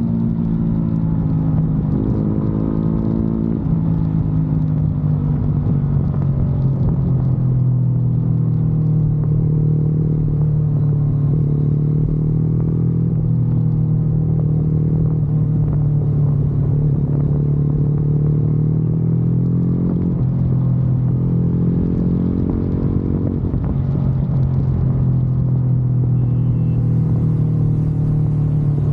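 Motorcycle engine and exhaust running steadily under way, a deep note whose pitch rises and falls a little as the throttle changes.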